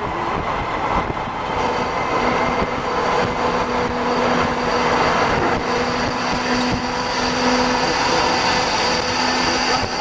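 Metro Gold Line light rail train passing: a steady rushing noise with a steady hum at several pitches that comes in about a second and a half in.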